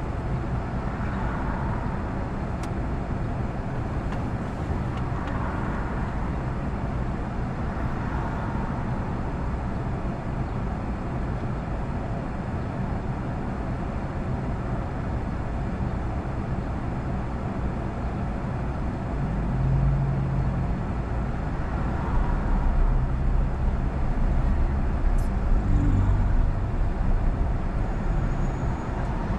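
Car engine idling in slow stop-start traffic, heard from inside the cabin: a steady low rumble with road-traffic noise, growing somewhat louder about twenty seconds in.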